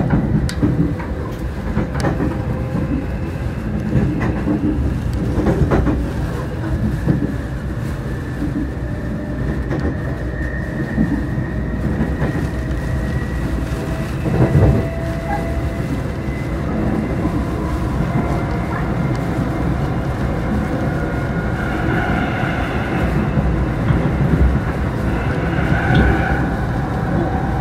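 A passenger train running on the rails, a steady rumble with scattered clacks from the wheels. A faint high whine runs through it, and near the end high squealing tones come and go.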